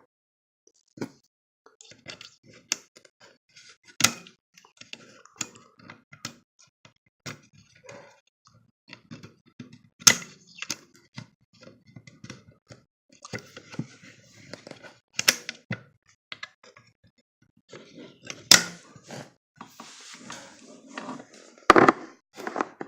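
Irregular clicks, taps and knocks of tools and parts being handled, with a few sharper knocks about 4, 10, 15, 18 and 22 seconds in, and brief scraping between them.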